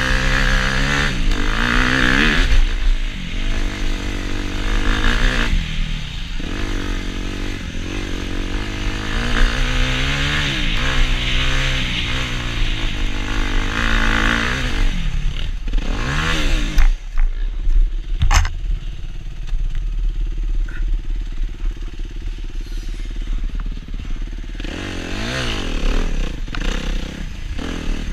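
Suzuki RM-Z250 single-cylinder four-stroke dirt bike engine revving up and down repeatedly while riding. About eighteen seconds in there is a sharp knock, after which the engine runs at low revs for several seconds before revving up again.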